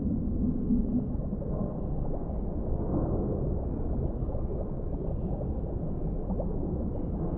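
Underwater ambience: a steady, dull, low rumble of water with no high sounds, and a few gurgles in the first second.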